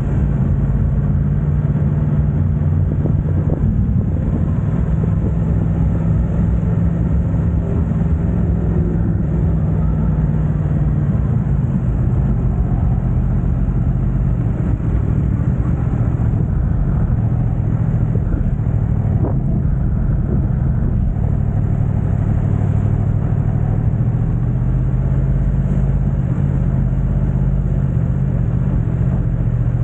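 Yamaha YZF-R1's crossplane inline-four running through an Akrapovic exhaust, a steady low exhaust note whose pitch eases slightly lower past the middle.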